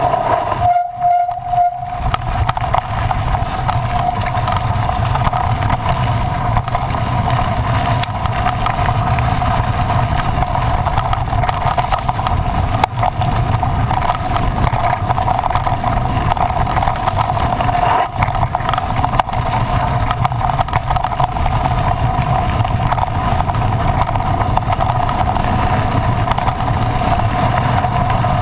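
A motor vehicle's engine running steadily: a continuous low rumble with a steady whine.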